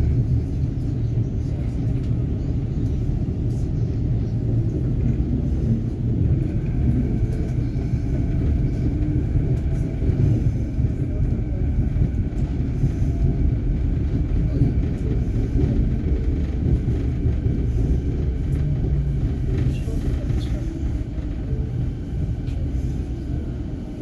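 Canada Line SkyTrain car running between stations: a steady low rumble of wheels on the track with a faint steady whine from the drive. It eases off a little near the end.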